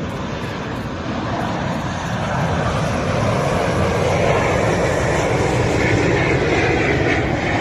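Jet noise from a Sukhoi Superjet 100 airliner's engines: a broad rushing noise that grows steadily louder, with a faint rising whine in the last couple of seconds.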